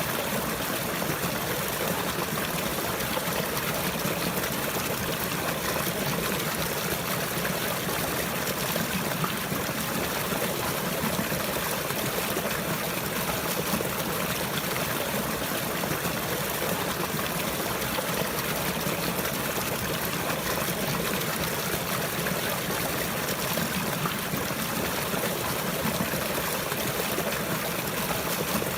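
Running water trickling steadily without a break.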